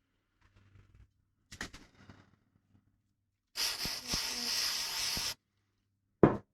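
A few light handling rustles, then a steady spray hiss lasting almost two seconds that starts and stops sharply, most likely an aerosol degreaser cleaning the engine part's sealing surface so it is oil and grease free before the RTV sealant goes on. One sharp click follows near the end.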